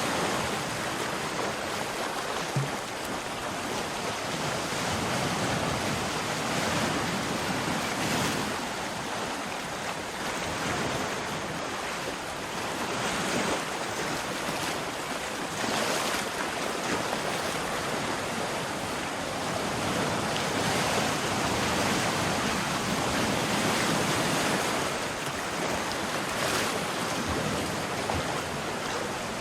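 Sea waves washing onto a shore in a continuous surf, swelling every few seconds with the breakers.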